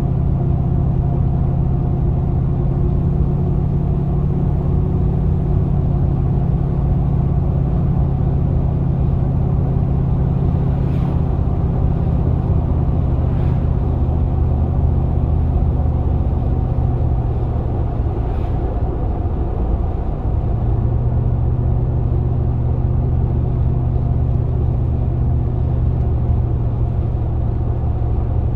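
The V8 engine of a GMC Vandura / Chevy G20 van running steadily while driving. About two-thirds of the way through, the engine note dips briefly and settles at a lower pitch.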